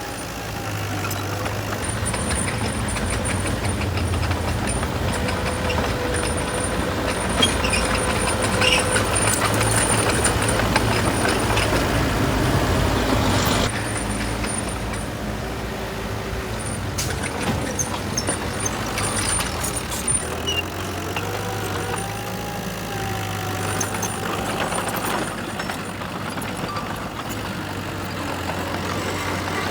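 Heavy diesel engine of earthmoving machinery running, louder for the first half and then dropping to a steadier, lower level about halfway through.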